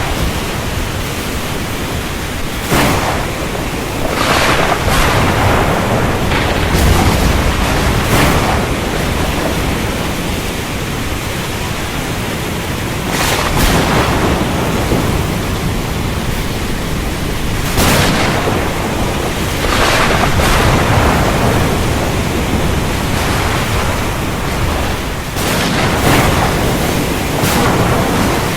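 Heavy thunderstorm: a steady rain hiss broken every few seconds by short, sharp cracks of thunder.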